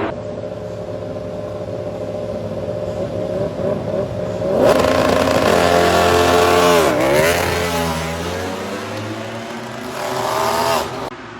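MotoGP racing motorcycle engine at high revs, its note rising, then dropping steeply about seven seconds in before climbing again as it picks up speed. The sound cuts off abruptly near the end.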